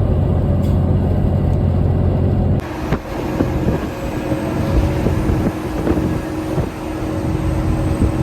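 Steady low drone of a truck's engine and road noise heard from inside the cab. About two and a half seconds in it cuts off sharply to a quieter steady hum with scattered light clicks.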